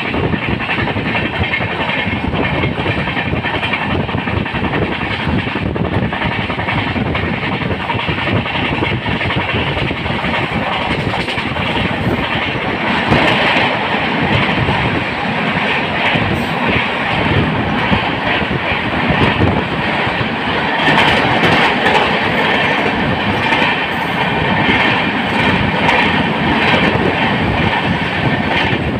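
Janshatabdi Express passenger train running along the track: a steady rumble and rattle of the coaches with faint repeated wheel clicks, swelling a little louder around the middle and again toward the end.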